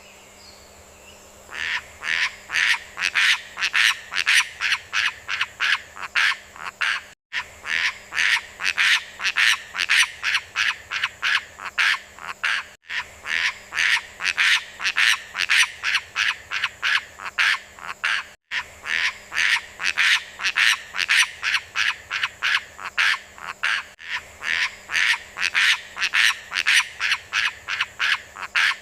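Call of the beo lumut, a myna-type bird: a fast run of even, sharp notes, about three a second. It begins about a second and a half in and repeats in stretches of five or six seconds with brief breaks between them.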